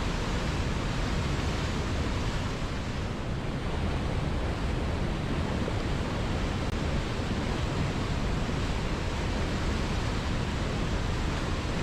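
River water flowing in a steady, even rush with no distinct splashes or changes.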